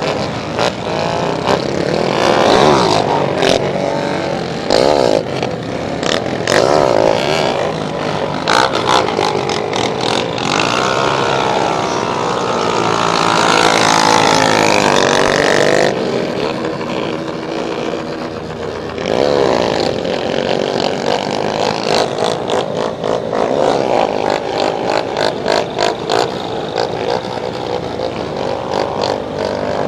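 Several motorcycles revving and riding past, their engine notes overlapping and rising and falling in pitch, loudest for a few seconds around the middle.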